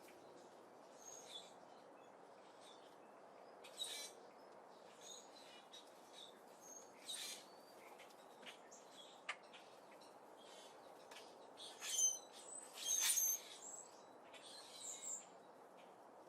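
Small birds at a seed feeder chirping in short, high, scattered calls, loudest in a cluster near the end, with a few sharp clicks over a faint steady hiss.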